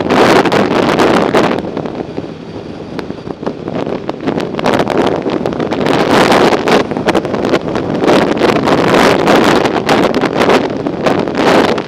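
Wind buffeting the microphone while riding: a loud rushing that eases for a couple of seconds near the start, then builds again, with many short sharp clicks and knocks through it.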